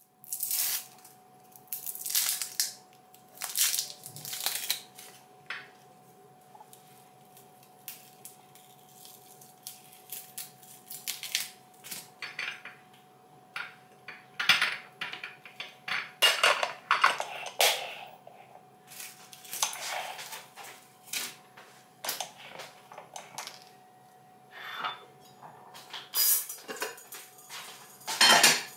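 Irregular clatter and clinks of hard objects being handled, over a faint steady hum.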